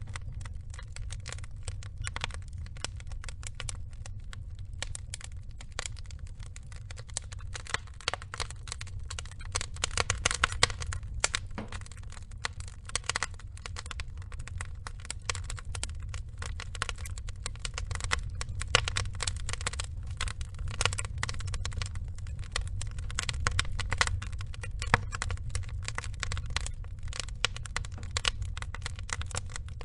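Wood fire of burning logs crackling and popping, with irregular sharp snaps over a steady low rumble of the flames; the pops bunch up more thickly about ten seconds in and again near the end.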